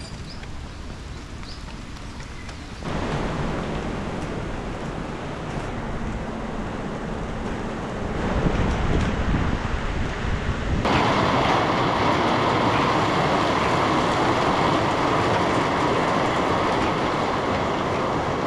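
Steady rain, with wind on the microphone, getting louder in two sudden steps about three and eleven seconds in.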